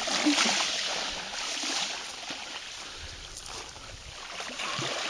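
Seawater sloshing and washing, a steady hiss of moving water that eases off in the middle and swells again near the end.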